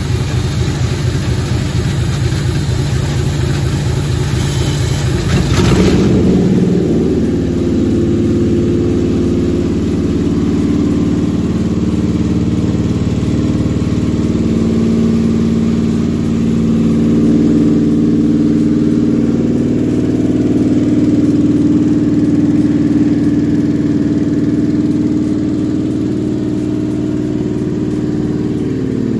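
Toyota 4GR V6 engine cranking on its starter for about six seconds, then firing and settling into a steady idle: its first start.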